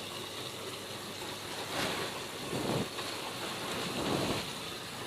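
Strong wind rushing over a greenhouse's plastic roof sheeting, a steady rustling noise that swells in three gusts.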